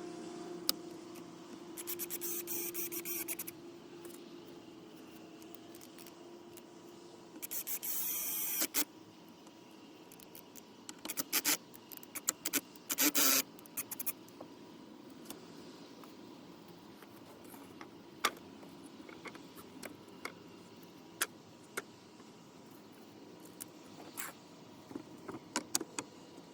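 A vehicle engine hum fades away at the start. Then come two rattling bursts, each about a second and a half long, and a run of sharp clicks and knocks, with single clicks spaced out through the rest: the sounds of hand work with wire and tools.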